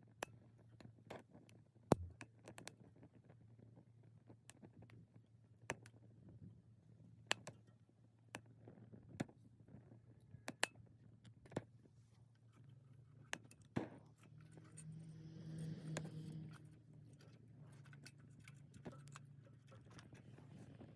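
Small wood fire in a Sierra camp stove crackling with sharp, irregular pops over a steady low hum from the stove's fan. A softer hissing swell rises for a few seconds around the middle.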